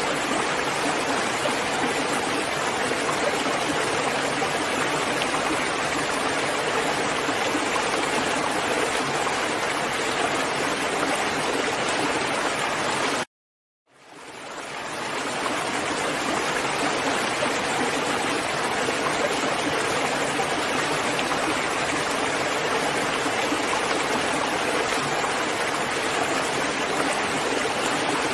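Steady rain, a dense even hiss of water. About halfway through it cuts out completely for half a second, then fades back in over a second or two.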